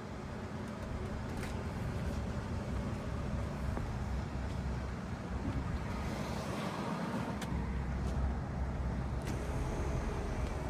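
1977 Cadillac Eldorado Biarritz's V8 running, a steady low rumble of engine and road noise with a few faint clicks.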